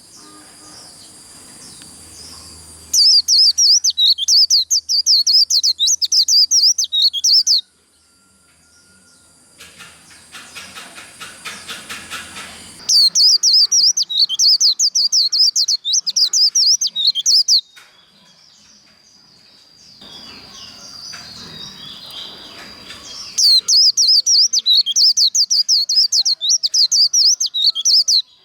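White-eyes (vành khuyên) singing the fast 'líu' song: three loud bouts of rapid high-pitched warbling, each about four to five seconds long, with quieter twittering in the gaps between them.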